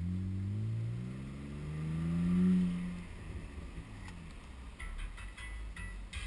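BMW car engine accelerating, its pitch rising to a peak about two and a half seconds in, then easing off as the car rolls on.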